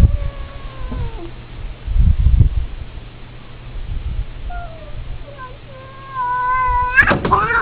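A cat yowling. One long call slides down in pitch in the first second, and a long held yowl starts about four and a half seconds in, then breaks into a loud, harsh outburst near the end. Low thumps and rumble come in between.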